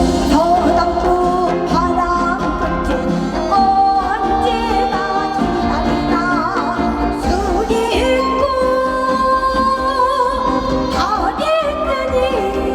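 A woman singing a Korean folk song in a traditional style, with wavering, ornamented vibrato over amplified instrumental accompaniment.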